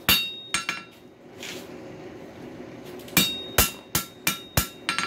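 Hand hammer striking hot coil-spring steel on an anvil to forge a shoulder, a small stop, on a screwdriver blank. A few blows near the start, a pause, then six quick blows about three seconds in, each with a metallic ring.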